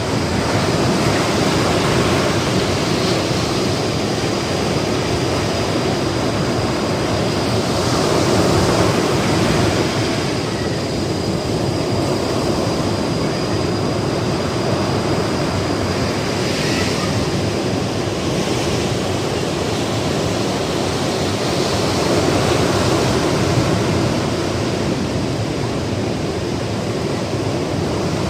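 Ocean surf washing and breaking on a beach as a continuous rush of water noise, swelling louder about eight seconds in and again past twenty seconds. A faint thin high tone runs steadily through the first two-thirds.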